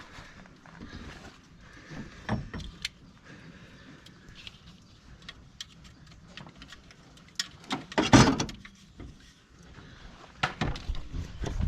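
Scattered clicks and clanks of hand tools and metal parts being handled, with one louder clatter about eight seconds in.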